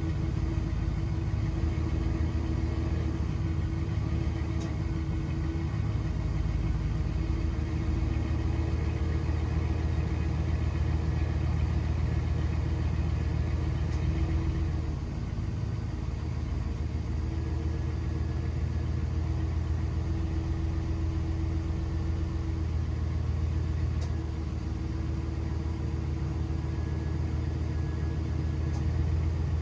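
1999 GMC Sierra pickup engine idling steadily just after a cold start, with a deep, even rumble. About halfway through it gets slightly quieter.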